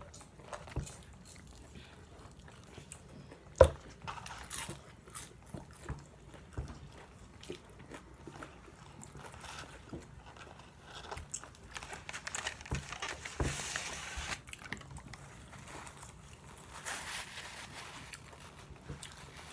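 Close-miked eating of fast food: bites, crunching and chewing, with scattered mouth clicks and one sharp click a few seconds in.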